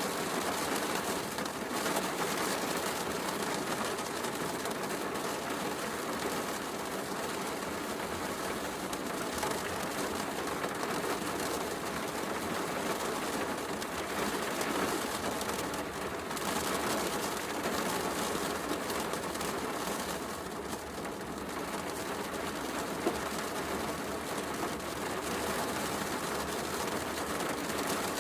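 Heavy rain falling steadily, mixed with the crackling of a fireplace fire. One sharper pop comes late on.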